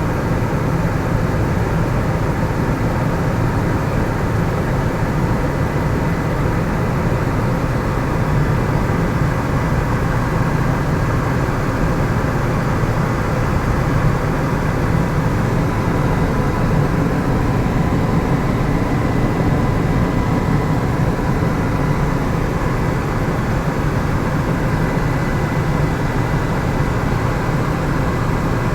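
Helicopter in flight heard from on board: a steady, loud rotor and engine noise with a faint thin whine over it.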